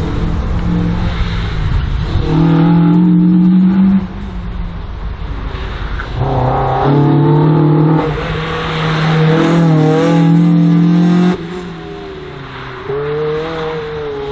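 Race car engine revving hard as the car is driven through a slalom course, throttle on and off so the pitch climbs and falls several times, with sharp lifts about four and eleven seconds in.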